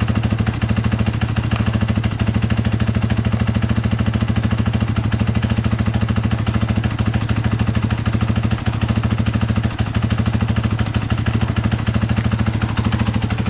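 2017 KTM 500 EXC's single-cylinder four-stroke engine running steadily at an unchanging speed, with an even, rapid pulse.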